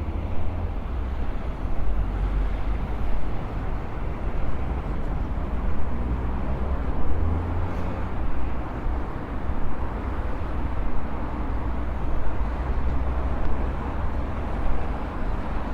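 Outdoor road traffic ambience: a steady low rumble of passing vehicles, with no single sound standing out.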